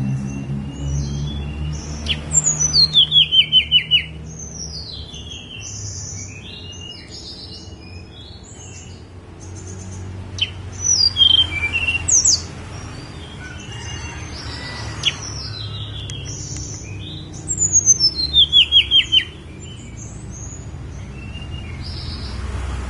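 Tledekan gunung singing a varied run of high chirps and whistles. Twice it breaks into a loud, rapid series of notes that steps down in pitch, about two to four seconds in and again near the end. There is another loud burst of song about eleven seconds in.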